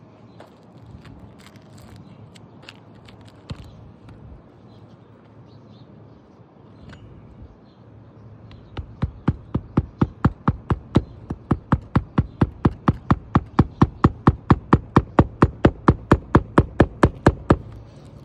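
Hammer striking steadily, about four to five blows a second for some nine seconds starting about nine seconds in, driving nails to fasten a replacement roof shingle. Before that, scattered light knocks and taps.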